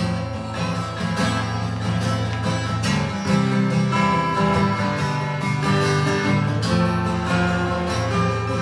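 Acoustic guitar strumming chords through a PA: an instrumental introduction with no singing.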